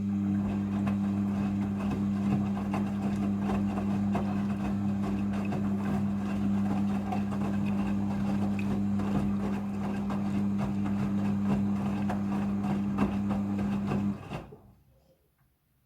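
Midea front-loading washing machine running during a rinse: a steady electrical hum with water rushing through it. It cuts off suddenly about fourteen seconds in.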